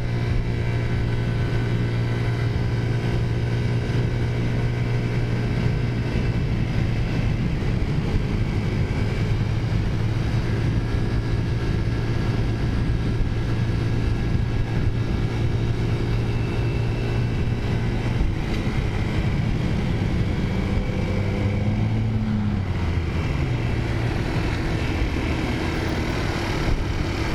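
Taotao 50cc scooter's small four-stroke engine running at a steady cruising speed, a constant hum with wind and road noise. Near the end the pitch climbs and then drops away.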